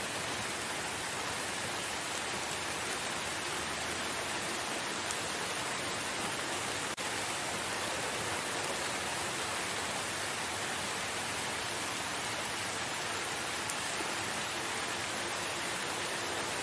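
Steady rain falling in a forest: an even, dense hiss without distinct drops, with a brief dip in level about seven seconds in.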